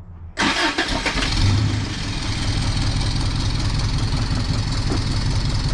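1987 Toyota pickup's four-cylinder engine starting: it catches about half a second in, flares up briefly and settles into a steady idle through headers just resealed with RTV where they leaked exhaust.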